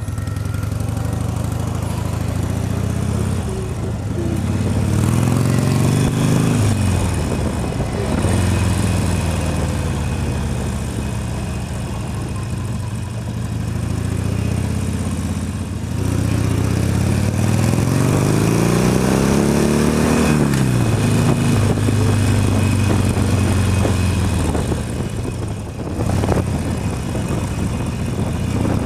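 Motorcycle engine heard from the rider's helmet, pulling away twice in slow traffic: its pitch climbs, then drops sharply as the throttle closes, with steady low-speed running in between.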